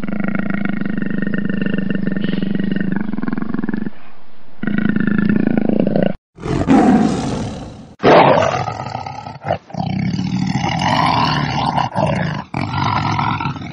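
A large wild animal roaring, heard in several short clips joined with abrupt cuts: a long low call at first, then a harsher burst, then a run of shorter calls.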